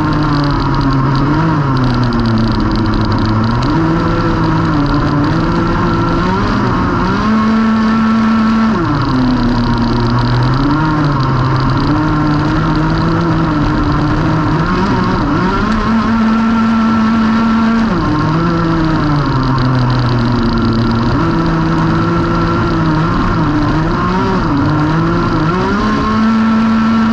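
Racing go-kart engine run hard through a lap: the pitch climbs, holds at full revs for a couple of seconds on the straights, drops off for corners and climbs again, repeating several times.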